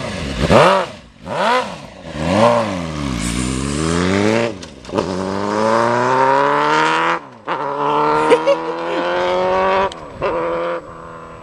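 Suzuki GSX-R 750 inline-four revved in several short up-and-down blips, then pulling away with a long rising pitch. The revs drop sharply at a gear change about seven seconds in, climb again, then ease off lower near the end.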